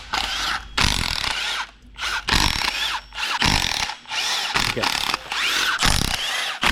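Power tool run in a series of short bursts, about one a second, the way it is used when driving out bolts during an engine teardown.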